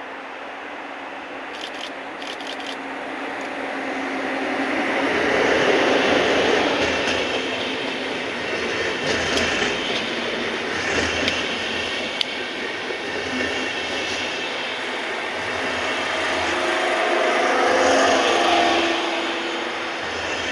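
A train running past on the rails, its rolling noise swelling to a peak about six seconds in and again near the end, with sharp clicks through the middle.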